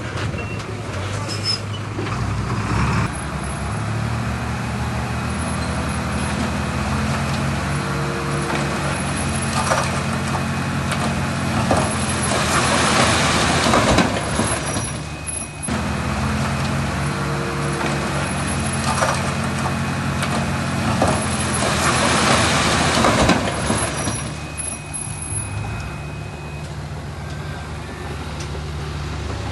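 Heavy diesel construction machinery running steadily, with two longer stretches of louder rushing, rattling noise, about halfway through and again later.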